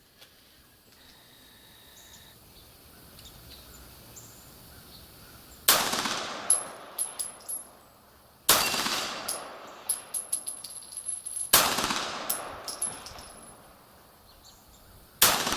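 Beretta 92G Elite Compact 9 mm pistol fired four single shots, spaced about three seconds apart as each shot is aimed. Each shot is followed by sharp metallic clinks.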